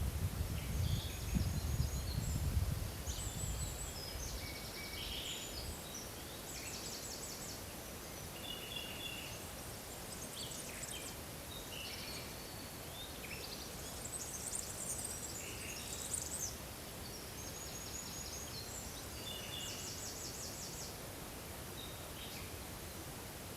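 Forest ambience with several small birds singing and calling, short chirps and high trills, one song phrase repeated a few times, over a steady background hiss. A low rumble sounds during the first few seconds.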